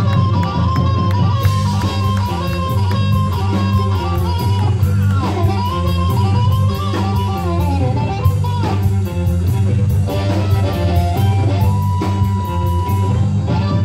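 A live blues-rock band playing an instrumental passage with no singing: guitar, bass and drum kit, with cymbals striking steadily. A guitar lead line bends up and down over the band.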